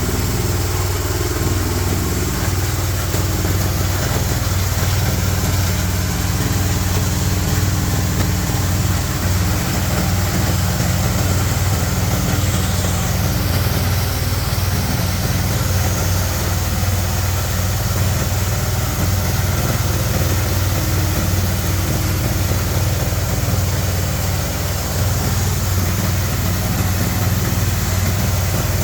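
G-50 hammer-mill grinder running steadily while grinding corn cobs: a constant low drone under a dense, even rush of noise.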